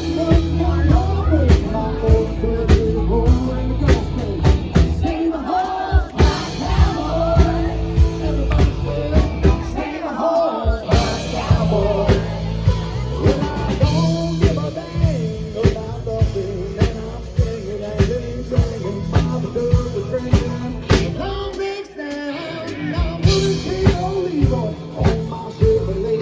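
Live rock band playing a country-rock song, with a drum kit keeping a steady beat under a sung vocal line.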